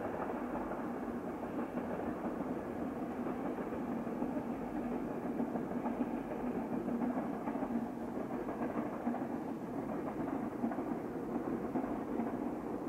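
A passenger train on the Greek main line passing at a distance across the mountainside, a steady rumble of wheels on rails with faint clicking.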